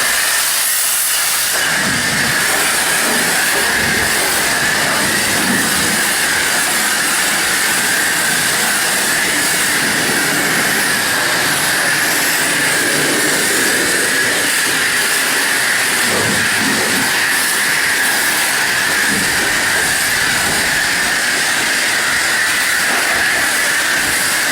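High-pressure car wash wand spraying water in a steady, loud hiss.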